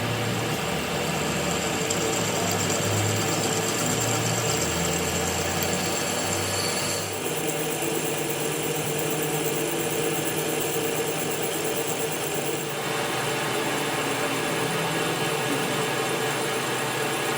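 A workshop power tool or machine running steadily, its sound changing about seven seconds in and again near thirteen seconds.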